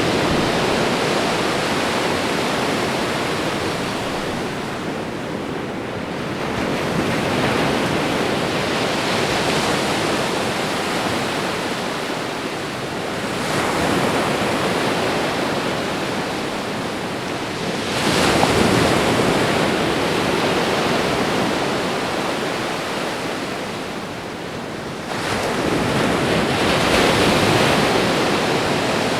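Ocean waves washing onto a shore, with each wave swelling and easing back every few seconds and a few sharper breaks.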